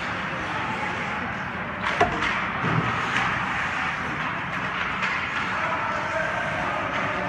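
Steady noise of a sports game from the stands, with a sharp knock about two seconds in and a lighter one about a second later.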